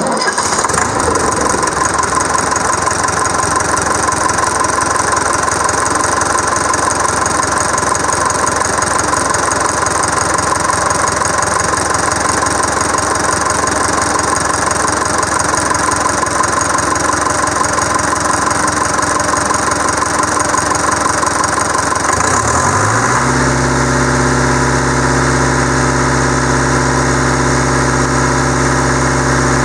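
Deutz F4L912 air-cooled four-cylinder diesel engine starting up and running, with a steady whine over a rough diesel clatter. About 23 seconds in, its note shifts briefly and settles into an even, steady drone as the engine speed changes.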